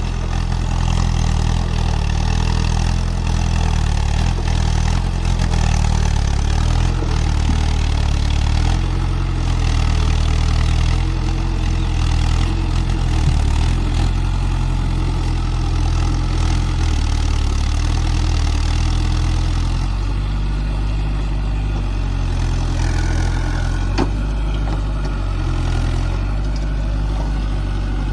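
Tractor engine running steadily, a low even drone whose tone shifts a little about two-thirds of the way through. A single sharp click is heard near the end.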